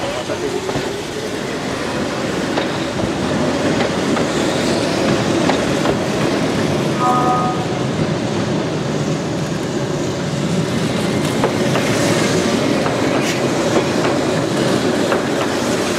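Keihan Otsu Line electric trains, among them a two-car 700 series, running across a street intersection on street track, their wheels clattering over the rail joints and crossings. A short tone sounds about seven seconds in.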